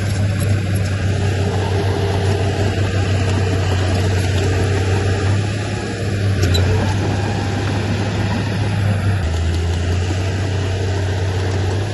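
Diesel engine of heavy earthmoving machinery running steadily, a low drone that shifts slightly about nine seconds in.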